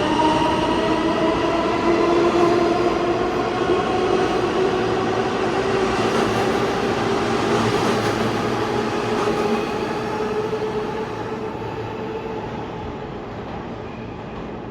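New York City subway train running through the station, its motors whining in several tones that slowly drift down in pitch over the rumble of the wheels. The sound fades out over the last few seconds as the train moves away.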